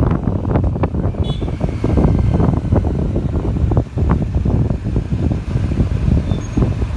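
Wind buffeting the phone's microphone on a moving motorcycle: a loud, uneven low rumble of gusts that covers the bike's own sound.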